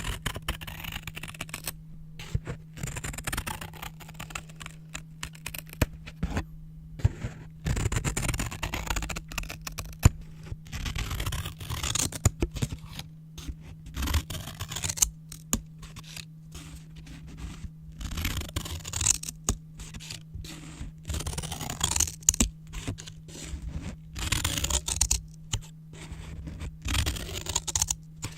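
Scissors cutting brown paper: irregular runs of crisp rustling and scraping, broken by sharp clicks and short pauses, over a steady low hum.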